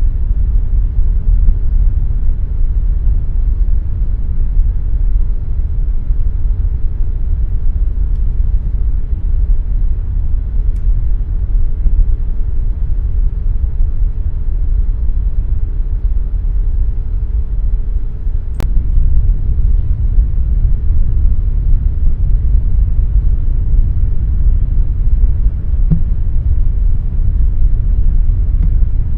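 Air conditioner running with a steady low rumble. A faint steady hum drops out at a single sharp click about two-thirds of the way through.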